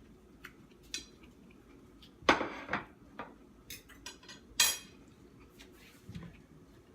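Kitchen dishes and utensils being handled: a handful of separate clinks and knocks, the loudest two about two and a half and four and a half seconds in.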